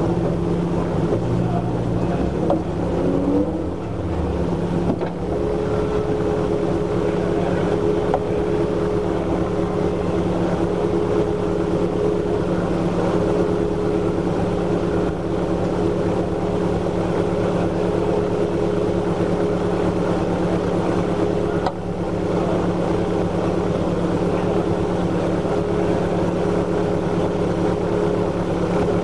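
Mazda MX-5 race car's four-cylinder engine idling steadily at about 1,050 rpm, heard from inside the cabin.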